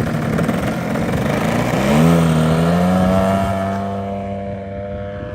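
The 100cc two-stroke gas engine and propeller of a large-scale RC airplane running, its pitch rising about two seconds in and then holding steady while the sound slowly fades.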